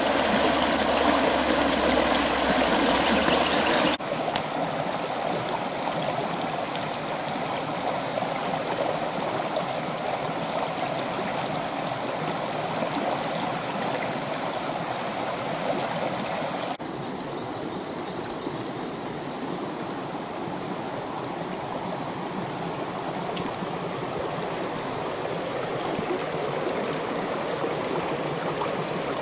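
Creek water flowing and babbling over its bed in a steady rush. The level and tone change abruptly about four seconds in and again a little past halfway, growing quieter each time.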